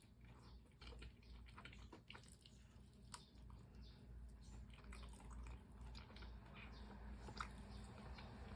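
Faint chewing of fried chicken, heard as many small, irregular clicks over a low steady hum.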